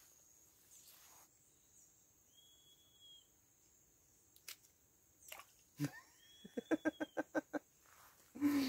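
Mostly quiet outdoor sound with animal calls, most likely birds: a few thin high whistles now and then, and about six seconds in a quick run of about ten short notes.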